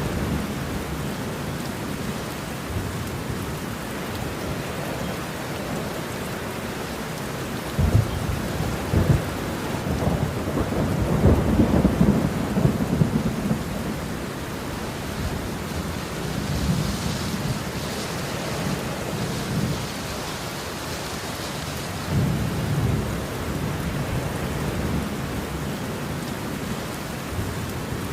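Steady rain with rolling thunder. A sharp crack about eight seconds in leads into a longer, louder rumble, and weaker rumbles follow twice later on.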